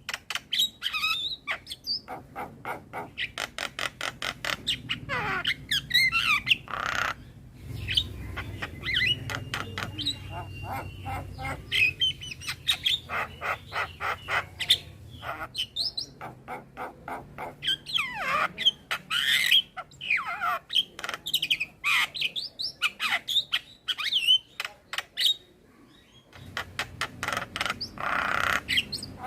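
Male Javan myna singing a busy, varied song: long runs of fast clicking rattles broken by sweeping chirps, whistles and harsh squawks, with a short pause near the end.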